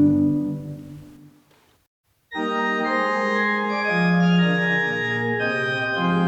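Organ music: a held chord dies away, a short dead silence follows, and about two seconds in the organ starts again abruptly, playing a moving introduction to a choral anthem.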